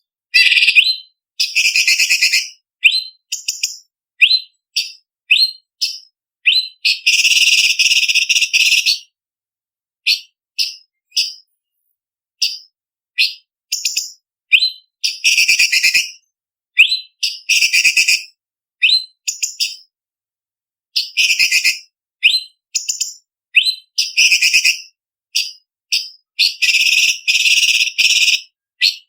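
Orange-bellied leafbird (cucak cungkok) singing: short, sharp, high-pitched whistled notes and quick chattering runs. The calls come in separate bursts with brief silences between them, and there are two longer runs, one about seven seconds in and one near the end.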